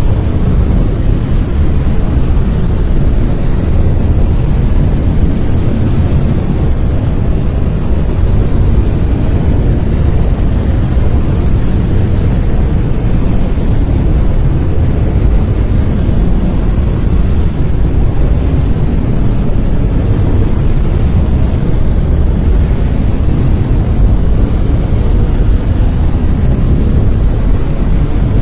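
Continuous brown noise: a steady, deep, rumbling hiss with most of its energy in the low end, unchanging throughout.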